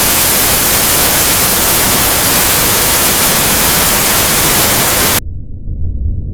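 Loud, even static hiss across all pitches that cuts off suddenly about five seconds in, leaving a low rumble.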